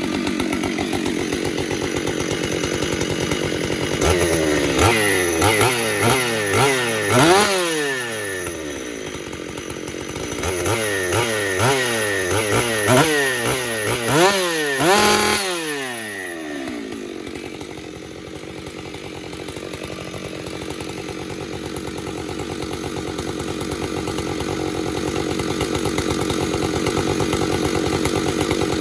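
90cc two-stroke chainsaw running with no load: a steady idle, then two runs of quick throttle blips, the engine note sweeping up and down several times each, starting about four seconds in and again about ten seconds in. It then settles back to a steady idle.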